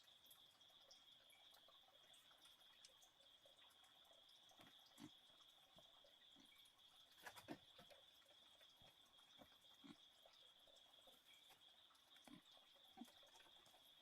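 Near silence at night: a faint steady high-pitched insect drone, with scattered soft ticks and drips, the most distinct about halfway through.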